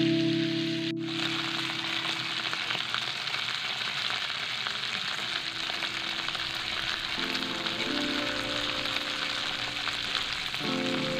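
Chicken sizzling in a frying pan: a steady frying hiss. Soft background music plays under it at the start and again from about seven seconds in.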